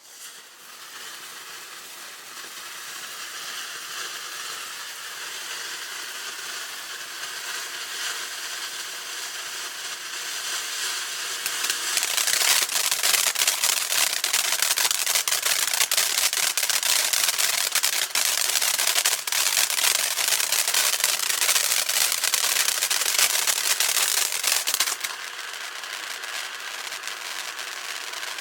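Monkey Mania Star Burst consumer firework burning with a steady rapid crackle that builds over its first seconds. About twelve seconds in it becomes a much louder, dense crackling, then drops back abruptly to a quieter crackle near the end.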